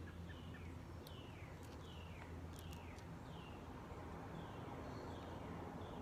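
A songbird calling repeatedly: a string of short, downward-sliding whistled notes, about two a second, thinning out toward the end. Under it is a faint, steady low outdoor rumble.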